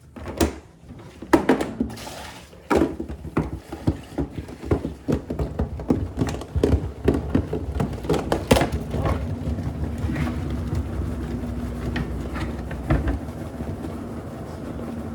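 Irregular knocks and clunks for the first half, then a steady low mechanical rumble with a faint held hum from about nine seconds in, likely the LG WM6700HBA front-load washer running while it is dealt with for over-sudsing.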